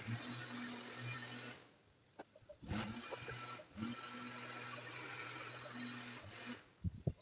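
Small motor-driven power tool running steadily in two bursts, a short one and then a longer one of about four seconds, with short knocks between and after them.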